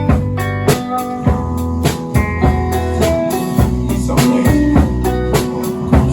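Live rock band playing an instrumental passage: guitar over a drum kit keeping a steady beat, with sustained low notes underneath.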